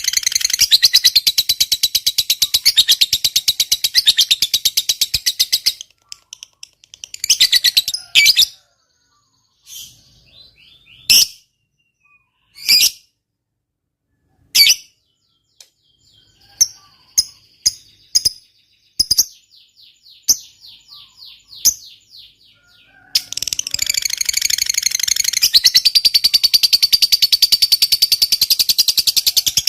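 Lovebird giving its long, rapid, shrill chattering trill (the 'ngekek panjang' that keepers prize), which breaks off about six seconds in. Scattered single sharp chirps and short trills follow, with silent gaps between them, and then a second long chattering trill starts several seconds before the end.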